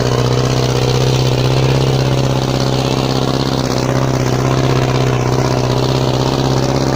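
Fiat tractor's diesel engine running steadily at an even, unchanging speed.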